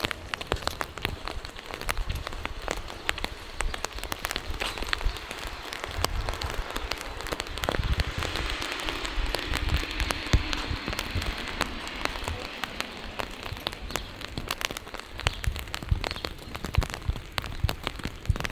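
Steady rain falling, with many sharp drop taps close by and a low rumble underneath. The rain hiss swells for a few seconds around the middle.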